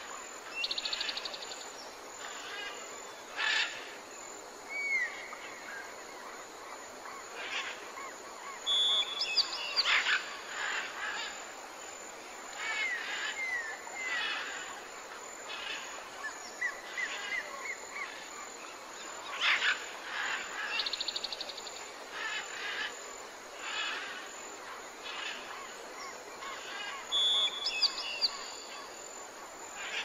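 A chorus of forest birds singing and calling: many short chirps, repeated downward-sliding whistles and now and then a rapid buzzy trill, over a steady background hiss.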